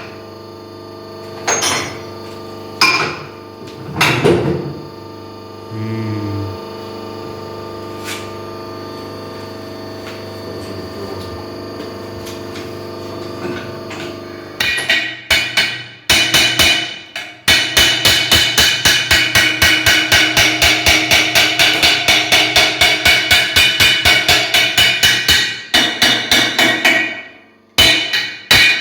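A hammer striking metal: a few separate blows near the start, then from about halfway a fast, even run of loud blows, about three a second, that stops shortly before the end.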